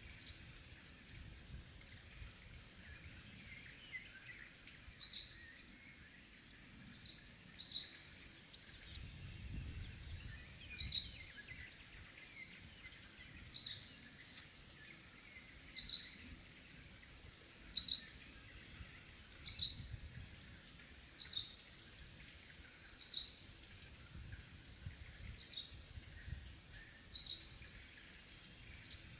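Forest ambience: a bird gives a short, high call about every two seconds, over a steady faint high-pitched insect drone.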